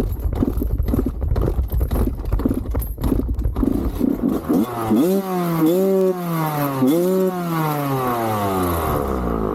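Clattering and knocks for the first few seconds. Then a dirt bike engine is revved twice, its pitch rising and falling with each throttle blip, before it drops to a lower, steadier note.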